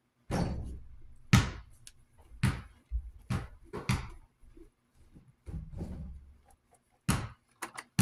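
A series of about eight separate knocks and clunks as metal fan parts are handled and fitted during reassembly.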